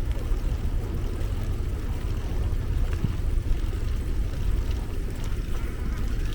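Steady low rumble of wind on the microphone while riding a bicycle.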